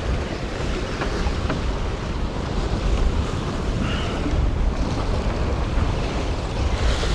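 Wind buffeting the microphone in steady gusts, over the wash of waves.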